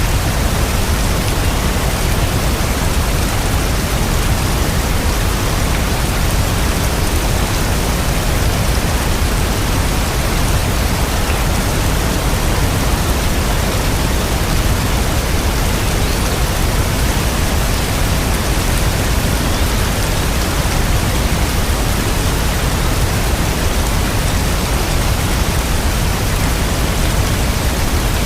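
Steady rain, an even hiss with no breaks, single drops or thunder standing out.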